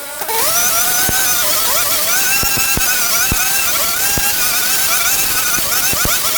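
Small engine of a gardening power tool running hard, its pitch wavering up and down as it is throttled, rising sharply just after a brief drop at the start. Scattered sharp ticks sound over it.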